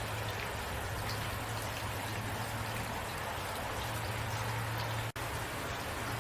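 Steady rain falling, with a low steady hum beneath it. The sound drops out for an instant about five seconds in.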